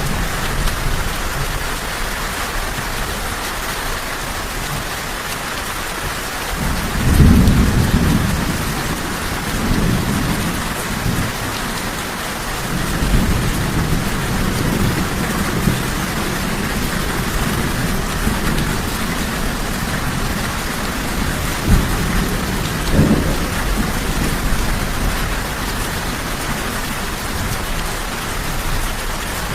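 Steady rain falling, an even hiss, with thunder rumbling low underneath: a loud roll of thunder about seven seconds in, further rumbles through the middle, and a shorter one a little past twenty seconds.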